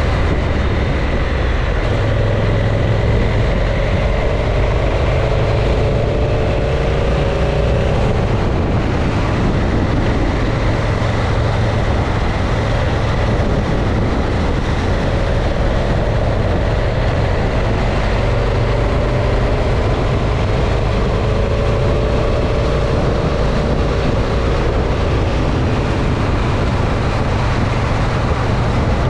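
Motorcycle on the move, recorded on board: heavy wind rush over the microphone with the engine running underneath. The engine note drifts up and down slightly in two stretches as the rider changes speed.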